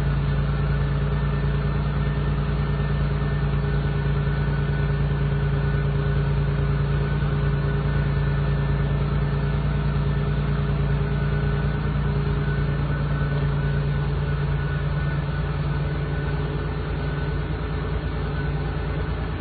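Car engine idling steadily, heard from behind the car at the exhaust: an even, unchanging low drone that softens a little in its upper part about two-thirds of the way through.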